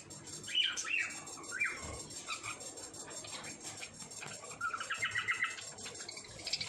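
Small pet parrots calling: a few quick gliding chirps in the first two seconds, then a fast chattering run of repeated chirps about five seconds in.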